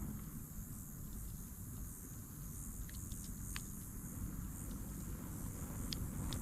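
Outdoor ambience: a steady low rumble and a constant high hiss, with a few small, sharp clicks about halfway through and again near the end.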